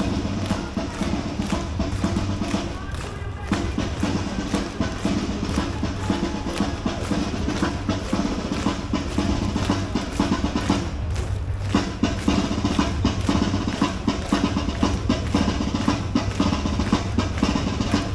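Band music with snare drum rolls and bass drum over sustained low instrument tones, in a steady march style; the tones drop out briefly about three seconds in and again about eleven seconds in.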